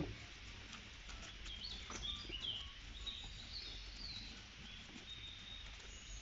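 Birds chirping: many short, high chirps and whistles scattered throughout, over a low steady hum.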